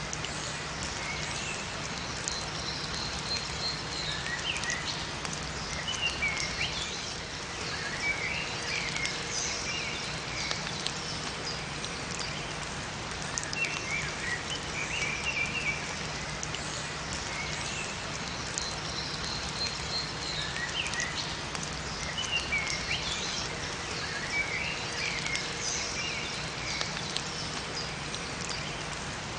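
Steady rain with scattered drips, and small songbirds chirping in short phrases that recur every few seconds.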